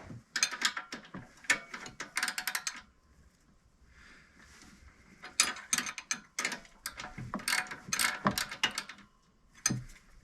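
Ratchet wrench clicking in two runs of quick strokes, the first about two and a half seconds and the second about four seconds, with a pause between, as a bolt is worked.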